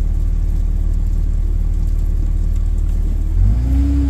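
Car engine and road rumble heard from inside the cabin while driving. Near the end the engine note swells briefly as the car speeds up.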